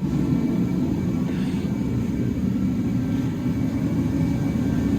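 Vehicle lift's pump motor running steadily as it raises a pickup truck whose frame is tearing under the load.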